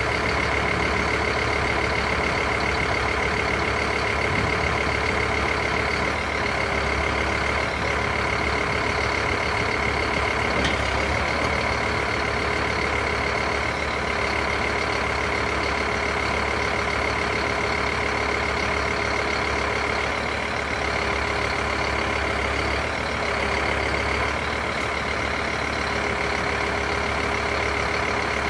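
Scania P270 truck's diesel engine running steadily at a constant speed, with a steady high whine over it.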